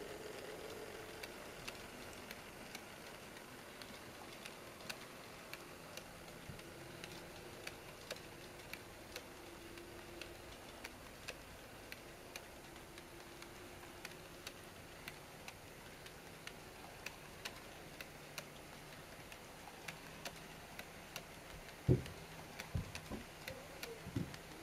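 HO-gauge model freight train (KATO DD51 locomotives pulling Taki 1000 tank cars) running, its wheels clicking over the rail joints about one to two times a second over a faint steady hum. A louder knock comes near the end, followed by a quick run of clicks.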